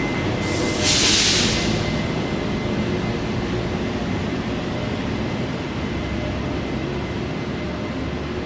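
Steady mechanical rumble, with a loud burst of hiss about a second in that dies away after about a second.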